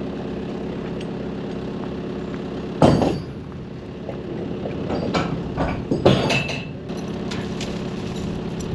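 An engine idling steadily, broken about three seconds in by a loud metal clank, then several knocks and clinks as a heavy load is set onto a trailer; the idle carries on after.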